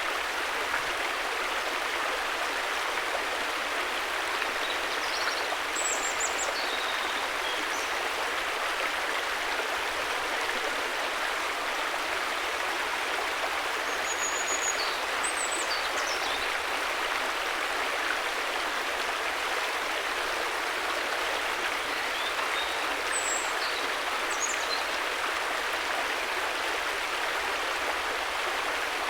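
A river flowing in a steady, even rush of water, with a few faint high chirps now and then.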